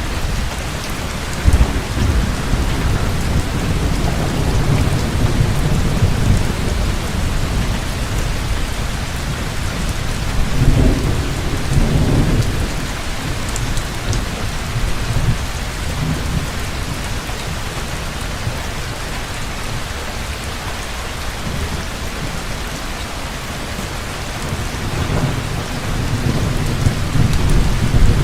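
Heavy rain pouring steadily, with thunder rumbling low underneath. The thunder swells about ten seconds in and again near the end.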